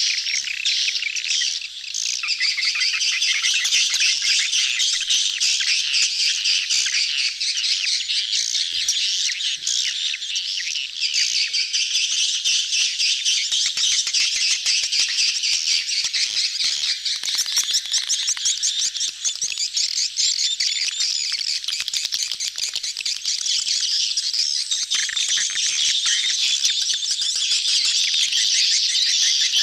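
A crowd of swiftlets chattering all at once: a dense, unbroken mass of rapid high chirps and twitters, the courting and mating chatter of a colony, as used on a swiftlet-house lure track.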